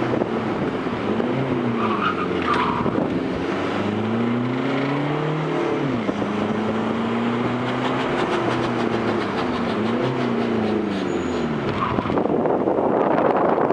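Fiat Grande Punto's 1.9 diesel engine revving up and down repeatedly, its pitch rising and falling several times, with a louder rushing noise building near the end.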